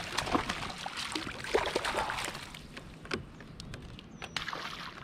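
Water splashing with scattered small knocks and clicks around a fishing kayak while a hooked fish is fought, busiest in the first half.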